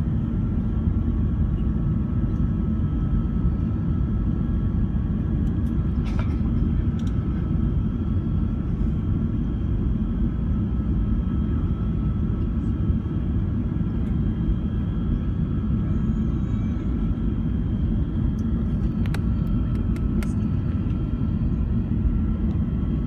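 Steady low roar inside the cabin of a British Airways Airbus A380, its Rolls-Royce Trent 900 engines and the airflow giving an even rumble with a faint steady whine above it and a few small ticks.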